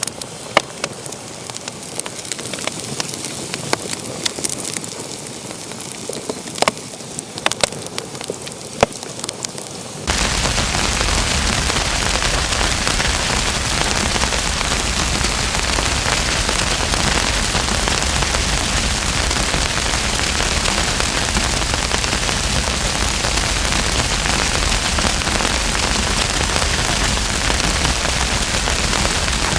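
Wood fire in a fireplace crackling, with scattered sharp pops and snaps over a soft hiss. About ten seconds in, a loud, steady rushing hiss cuts in suddenly and drowns out the separate pops for the rest of the time.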